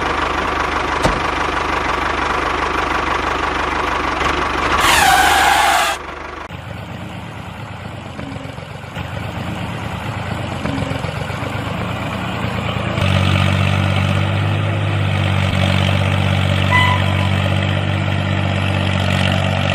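Engine running steadily, with a falling whoosh about five seconds in and abrupt changes in its pitch and tone at about six and a half and thirteen seconds.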